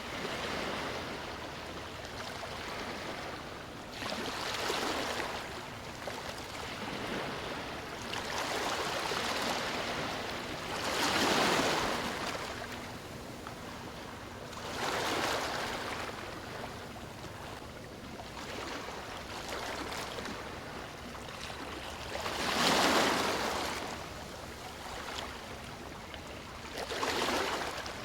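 Surf on a beach: waves breaking and washing up in swells that rise and fall every four to eight seconds over a constant rushing wash. The biggest swells come about 11 seconds in and again about 23 seconds in.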